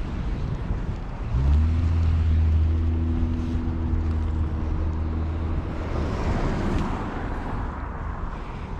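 A vehicle engine comes in about a second in and runs at a steady low pitch for several seconds, then fades as a rushing noise swells near the end, over wind buffeting the microphone.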